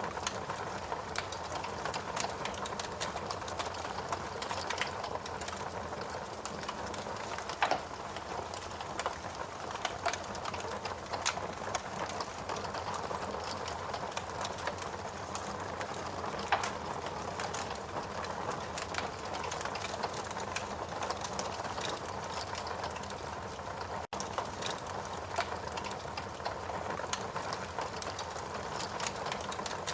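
Wood fire burning in a fireplace: a steady hiss with irregular crackles and sharp pops, cutting out for an instant about two-thirds of the way through.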